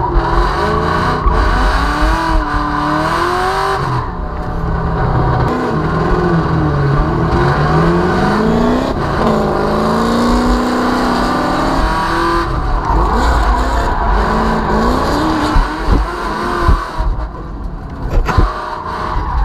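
Drift car engine revving up and down repeatedly through a drift run, with tyre noise underneath.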